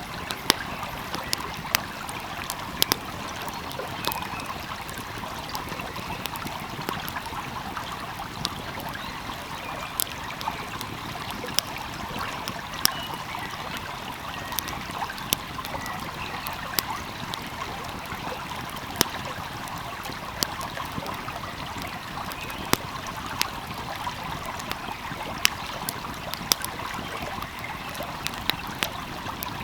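A stream flowing steadily, with a crackling fire giving irregular sharp pops over it, several in most seconds.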